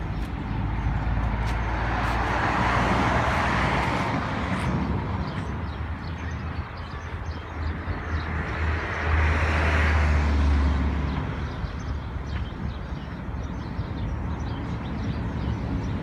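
Road traffic going past: two vehicles swell up and fade away, the second with a deep engine rumble.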